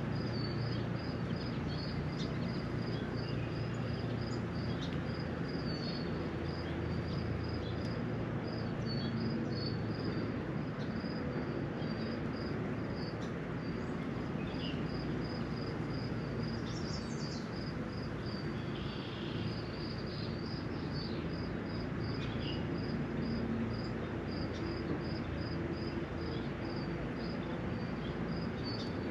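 Outdoor ambience in a spring rain shower: a steady low rumble and hiss beneath a high, thin call repeated about two or three times a second throughout, with scattered short bird chirps over it.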